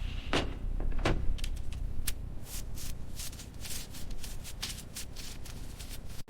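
Two metal clanks that ring briefly, then an irregular run of sharp high clicks and short hissy bursts over a low rumble, cutting off abruptly near the end.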